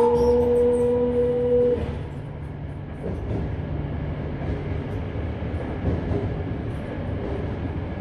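Toei 5300-series electric train's traction motor and inverter whine, held at one steady pitch and then cutting off about two seconds in as power is shut off. The train then coasts with a steady rumble of wheels on rails, heard from inside the car.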